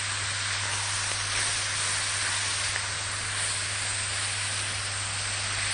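Chopped liver with onion, peppers and garlic sizzling steadily in a hot frying pan while being stir-fried with a silicone spatula.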